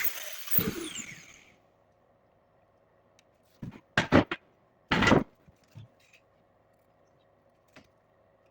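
A power tool's noise dies away with a falling whine as it spins down, then a handful of separate knocks and clanks of workshop parts being handled, the loudest two close together about four seconds in and a longer one about five seconds in.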